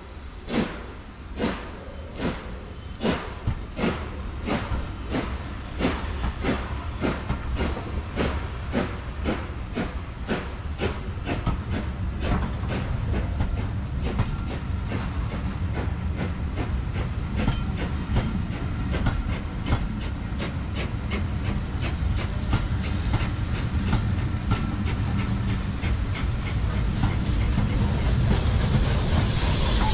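Steam-hauled passenger coaches rolling past, their wheels clicking over the rail joints in a regular rhythm that quickens as the train gathers speed, over a low rumble. Steam hiss builds near the end as the locomotive draws near.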